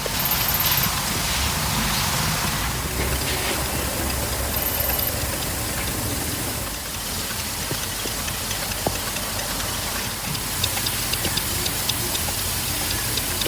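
Small model engine running: a steady hiss with faint rapid ticking that becomes clearer after about ten seconds.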